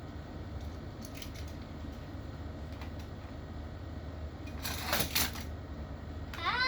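Toy monster truck clattering on a play course: light plastic clicks over a steady low hum, with a brief rattling clatter about five seconds in. A short vocal exclamation comes at the very end.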